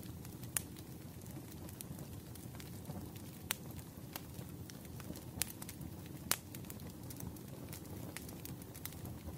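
Wood fire in a fireplace crackling: a low steady rumble of burning with sharp pops scattered irregularly through it, the loudest pop a little past six seconds in.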